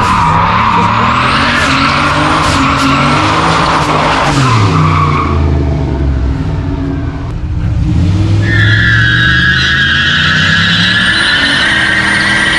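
Turbocharged 4.8 LS V8 truck engine running hard with tyres squealing for the first few seconds. The sound eases about seven seconds in, then the engine pulls again with a steady high whine.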